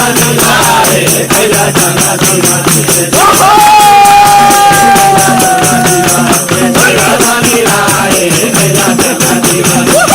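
Live Nepali folk music played as a dense, fast rhythm of jingling, shaken percussion. About three seconds in, a long melodic note is held for around three seconds, sinking slightly in pitch.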